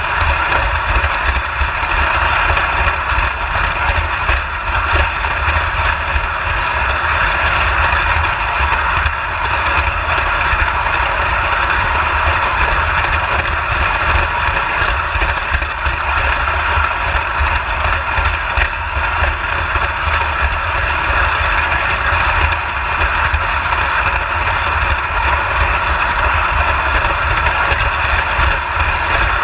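Prewar Lionel Standard gauge electric toy train running on its track: a steady whirring of the locomotive's motor and gears with running noise from the wheels on the rails.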